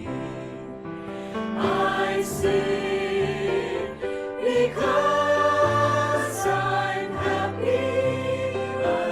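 Music: a choir singing a slow hymn-like song, with held notes that change pitch every second or so.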